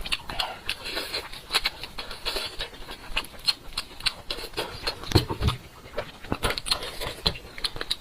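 Close-miked eating of meat from a sheep's head: chewing and wet mouth smacks in quick, irregular clicks, with a couple of dull thuds about five seconds in.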